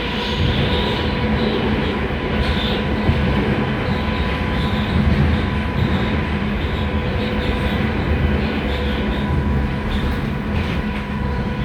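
Rusich articulated metro train running between stations, heard from inside the car: a steady rumble of wheels on rail with an even, level whine from the traction drive.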